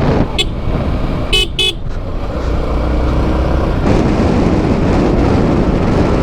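Vehicle horn tooting on the road: one short toot about half a second in, then two quick toots around a second and a half in, over the steady noise of a motorcycle ride.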